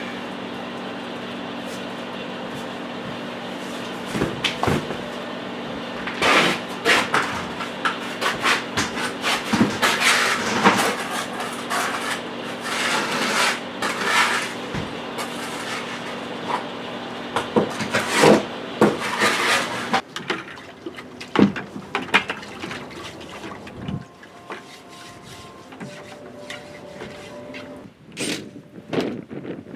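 Brick and mortar being worked by hand for a hearth: irregular scraping and rubbing strokes over a steady mechanical hum. The hum cuts off about two-thirds of the way through, leaving scattered knocks and scrapes.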